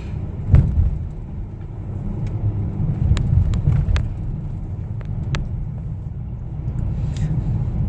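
Steady low road and engine rumble heard from inside a moving car's cabin, with a sharp click about half a second in and a few fainter clicks a few seconds later.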